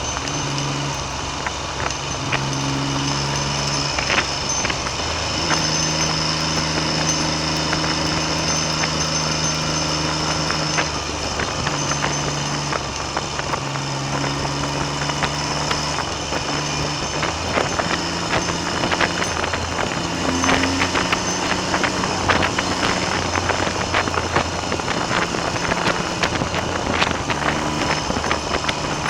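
Triumph Trident three-cylinder motorcycle engine pulling along the road, its note shifting up and down in steps several times, with wind noise and buffeting on the microphone.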